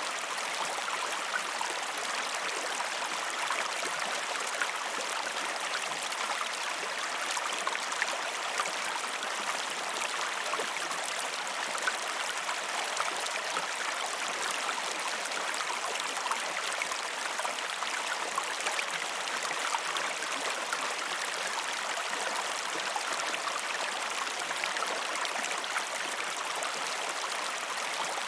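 River water flowing in a steady, unbroken rush, with small splashes and drips scattered through it.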